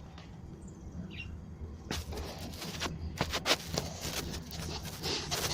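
Scattered sharp clicks and knocks of handling during refrigerator repair work, over a steady low hum. A short faint chirp comes about a second in.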